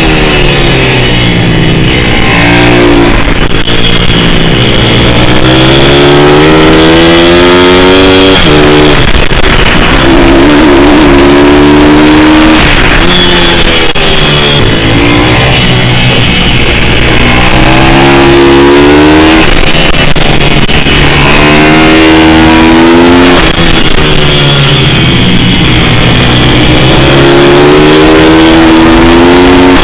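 Single-cylinder pit bike engine ridden hard. The revs climb in pitch over and over and fall back sharply every few seconds, as the bike accelerates along straights and shuts off into corners.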